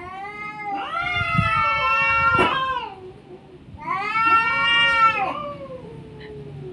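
Domestic cats yowling at each other in a fight standoff: two long, wavering, drawn-out threat yowls, the second trailing off into a lower call, with a sharp click partway through the first.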